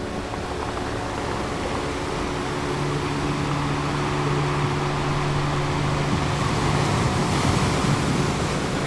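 Ocean waves washing steadily under a soft drone of held low synth tones; a new low note comes in about two and a half seconds in and fades out near the end.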